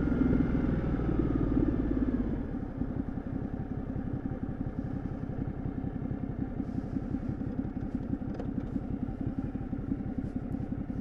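2013 Ducati Multistrada 1200S's L-twin engine and exhaust slowing down, its pitch falling over the first two seconds, then settling into a lumpy, evenly pulsing idle for the rest.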